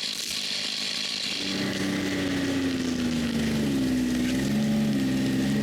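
Chainsaw running at high revs, cutting into a tree; its engine note sags briefly a couple of times near the end as the chain loads up in the wood.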